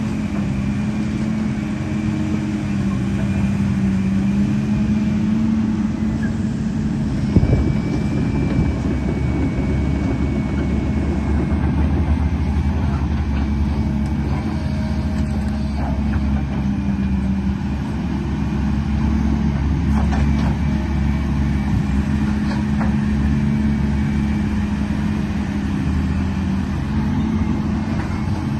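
Remote-control truck running: a steady engine-like drone that drifts slightly in pitch, with a single knock about seven seconds in.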